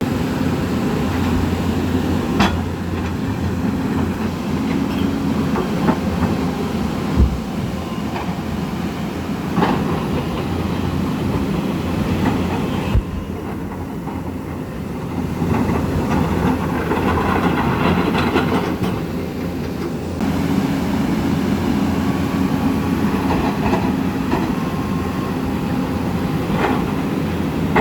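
Melamchi River in flood, rushing steadily, with a few sharp knocks scattered through it.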